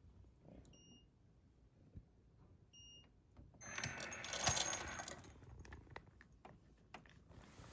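Two short metallic pings, then a louder clattering metallic jingle about four seconds in that lasts a second and a half.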